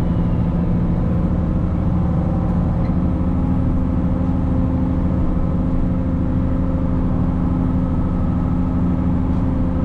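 Case 2670 tractor's diesel engine running steadily under load while pulling a disc chisel through the field, a constant drone with no change in pitch.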